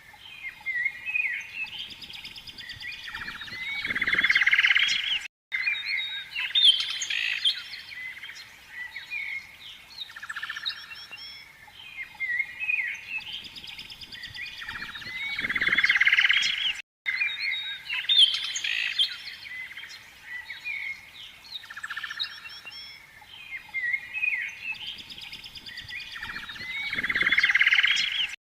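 A dense chorus of many small birds chirping and trilling, repeating in a loop of about eleven seconds, with two brief cuts to silence.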